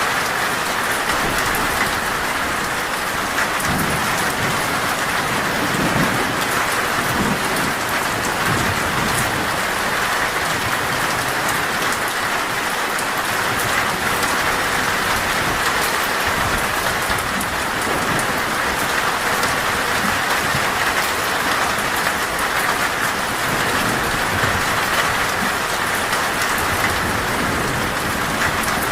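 Heavy rain falling steadily on a metal roof, a dense even patter, with a low rumble of thunder beneath it a few seconds in.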